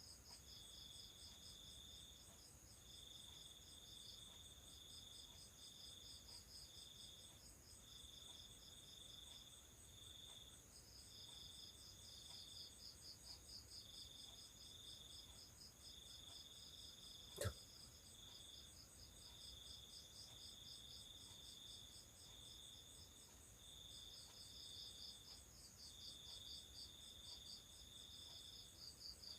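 Faint night chorus of crickets, several chirping trains overlapping at different high pitches, with one sharp click about seventeen seconds in.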